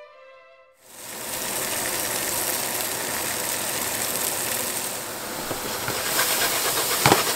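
Vegetables sizzling in hot oil in a frying pan, a steady hiss that starts about a second in as a short stretch of violin music ends. One sharp knock near the end.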